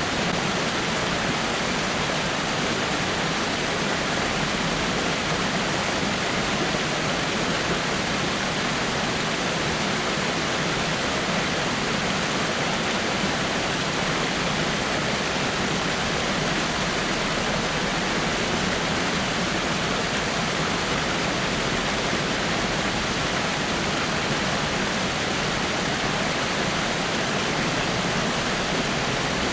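Water pouring over rocks in a small waterfall: a steady, even rush of splashing water.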